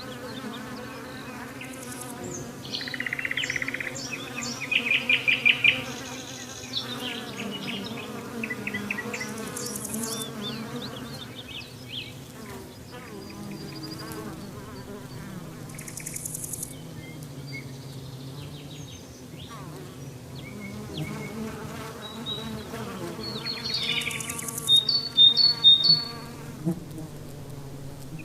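Steady insect buzzing with bird chirps over it. The loudest runs of chirps come about five seconds in and again near the end.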